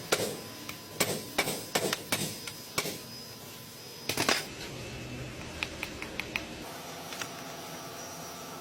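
Work on metal parts: a run of sharp, irregular clicks and knocks, a louder clatter about four seconds in, then a faint steady hum.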